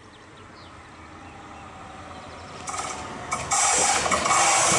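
Electric-locomotive-hauled train of double-deck coaches approaching on the rails, a steadily rising rumble that gets much louder about three and a half seconds in as the locomotive draws near.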